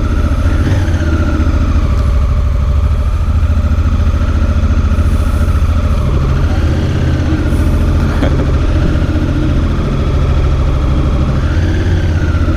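Motorcycle engine idling steadily, with a low, even running note.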